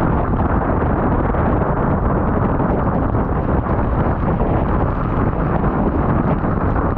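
Go-kart at speed on a wet track, heard through an onboard microphone: steady, loud wind buffeting with no clear engine note standing out.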